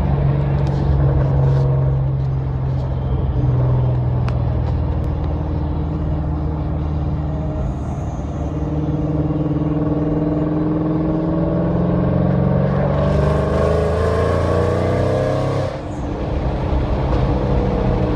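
Ford Mustang engine heard from inside the cabin while driving. Its pitch climbs steadily under acceleration in the second half, then drops suddenly about two and a half seconds before the end and settles back to a steady run.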